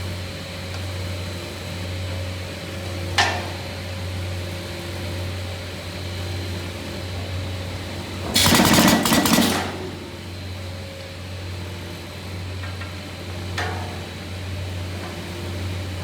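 Automatic picture-frame moulding cutting machine running with a steady hum, with a sharp click about three seconds in, a loud rushing burst lasting just over a second near the middle, and another click a few seconds later.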